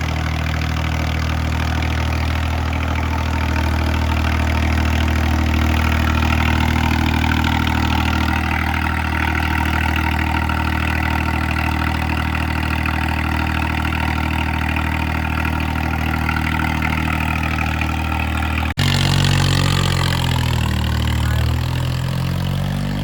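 Tractor diesel engine running steadily with an even, unchanging note. After a sudden break near the end, its pitch shifts up and down as the revs change.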